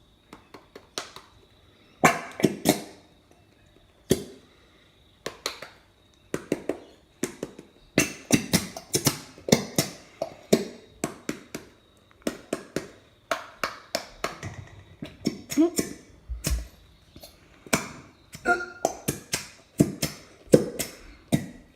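Irregular sharp clicks and squelches of slime-making: PVA glue being squeezed out of its bottle and worked in a bowl, several sounds a second in uneven bursts.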